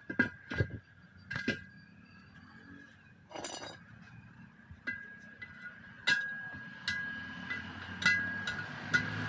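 Metal tools clinking and knocking on steel during truck tyre work: a run of sharp single strikes about a second apart, over a faint steady high tone.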